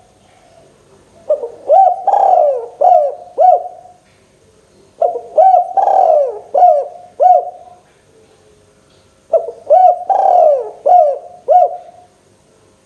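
Spotted dove (tekukur) cooing: three phrases about four seconds apart, each a quick run of five or six short hooting coos.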